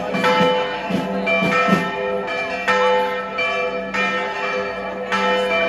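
Church bells ringing a festive peal, several bells of different pitch struck in turn at about two strokes a second, each note ringing on.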